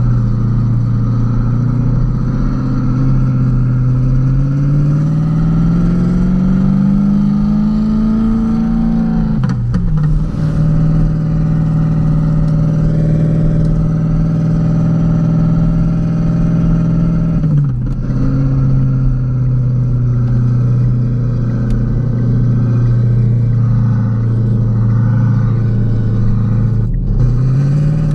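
Renault Kwid 0.8's three-cylinder engine driving along. Its pitch climbs steadily under acceleration, then drops sharply at a gear change about ten seconds in. It holds a steady cruise, drops again with another shift a little past halfway, and breaks briefly once more near the end.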